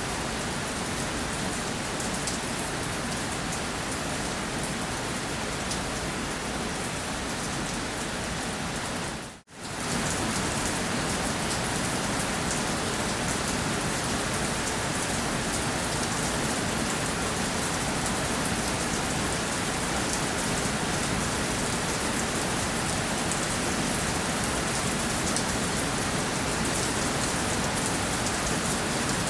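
Steady rainfall, an even hiss with fine drop patter. About a third of the way through it fades out to near silence for a moment and comes straight back, slightly louder.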